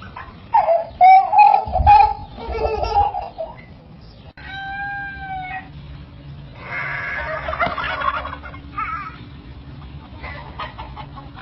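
Poultry calling: loud voice-like calls in the first three seconds, then a clear call about four and a half seconds in that rises and falls, and a rougher, noisier call about two seconds later.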